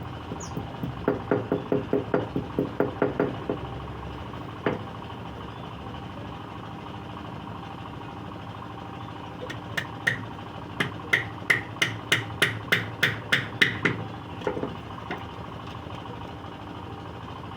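Rapid hammer blows on wood, about four a second, in two runs: a duller run near the start and a brighter, ringing run later on, likely nails being driven into a scrap-wood nest box. A single knock falls between the runs over a steady background hum.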